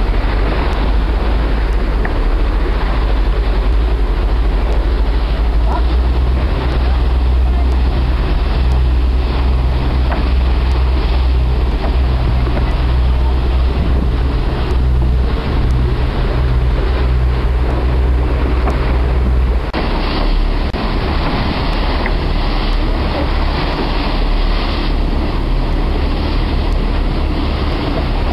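Tour boat under way: its engine hums steadily under wind buffeting the microphone and rushing water. The deep engine hum drops off about two-thirds of the way through, leaving mostly wind and water.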